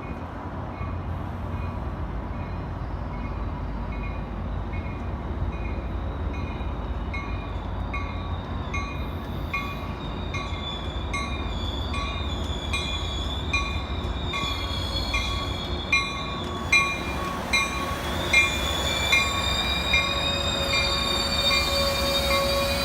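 A train rumbling past with a bell ringing steadily, about three strikes every two seconds. A wavering high squeal of steel wheels on rail joins from about a third of the way in, and a few sharp knocks come in the second half.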